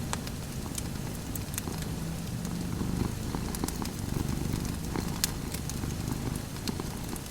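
Domestic cat purring steadily, with a wood fire crackling and popping over it; one sharper pop comes about five seconds in.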